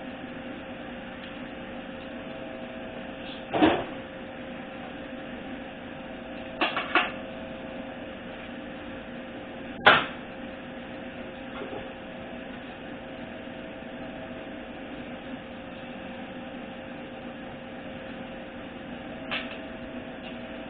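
Hand tools being handled at a transmission workbench: a few separate metal clacks over a steady shop hum, the sharpest about ten seconds in.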